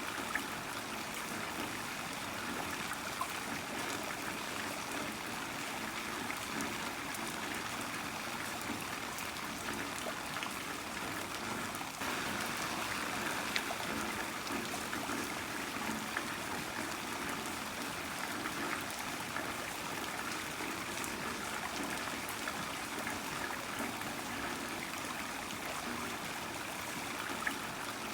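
Heavy rain falling steadily: an even hiss with scattered sharp drop ticks. The level steps up slightly about twelve seconds in.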